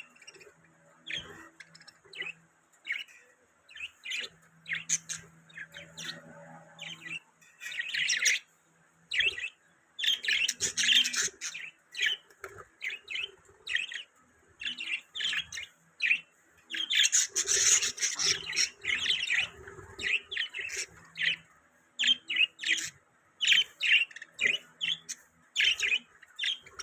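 Budgerigars chirping and chattering: many short, high chirps, with denser bursts of several birds at once now and then.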